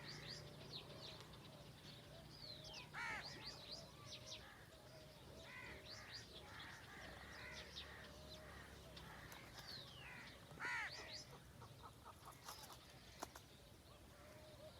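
Several wild birds chirping and calling: quick repeated chirps and short downward-sweeping whistles, with a louder, harsher call about three seconds in and again near eleven seconds.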